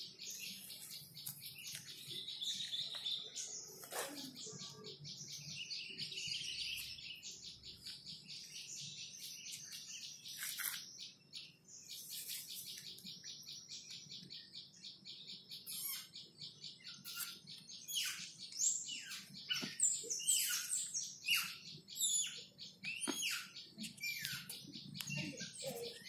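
Small birds chirping in a dense, continuous chorus of rapid high chirps, with many short falling calls in the second half.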